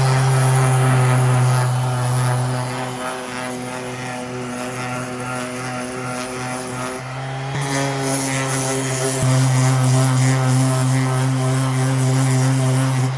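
Bauer 5-inch random orbital palm sander running with a steady motor hum. The hum eases back about three seconds in, then comes back louder and a little higher in pitch about halfway through, as with a change on its variable speed control.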